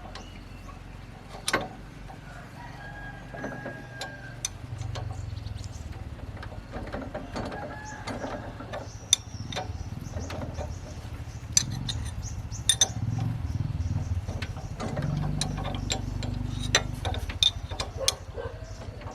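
Hand tools clinking and tapping on metal in scattered sharp knocks while a machine's bearing is being worked on. A low hum comes and goes, and a rooster crows in the background.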